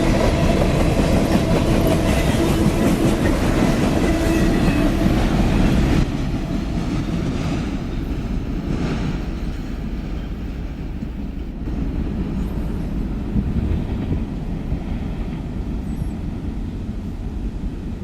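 Freight train cars rolling past with a steady rumble and wheel clatter over the rail joints, with some ringing tones above it. About six seconds in the sound drops abruptly and carries on more quietly.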